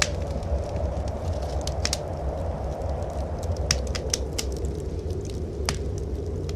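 Wood fire crackling in a fireplace, with scattered sharp pops, over a steady low rush of blizzard wind.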